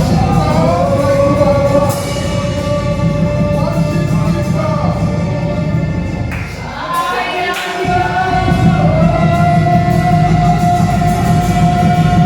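Voices singing a gospel worship song with instrumental backing, long notes held. The low accompaniment drops away briefly about seven seconds in, then returns.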